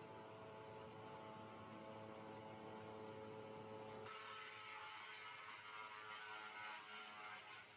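ZSYL-1000 wood chipper running steadily and faintly, a constant machine hum, with a broader hiss joining about four seconds in.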